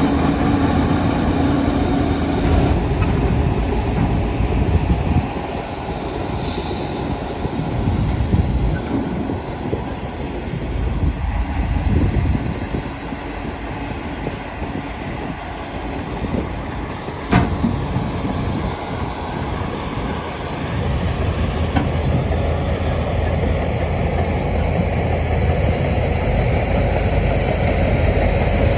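Diesel engine of a Shantui crawler bulldozer working, its low rumble rising and falling with load. A brief hiss about six seconds in and a single sharp knock near the middle.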